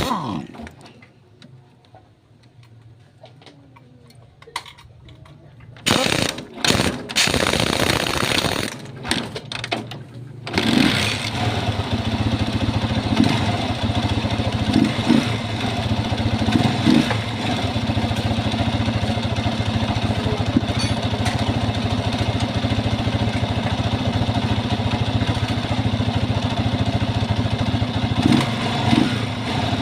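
Honda TMX 155 single-cylinder four-stroke engine being started: several short bursts as it is cranked, then it catches about eleven seconds in and runs steadily at idle.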